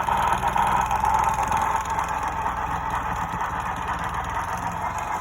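Model railroad train running along the track: a steady hum over a low, rapidly clicking rumble from the wheels and rails. The rumble fades out near the end.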